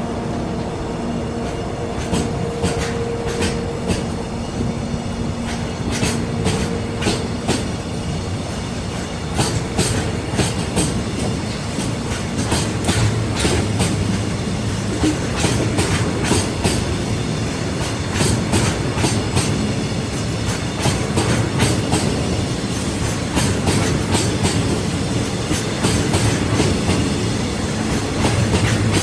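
Freight train rolling past, its wagon wheels clicking steadily over the rail joints.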